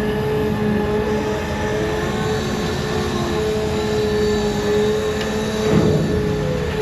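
Heavy diesel equipment running steadily, a constant engine rumble with a steady high whine over it, and a brief rougher surge about six seconds in.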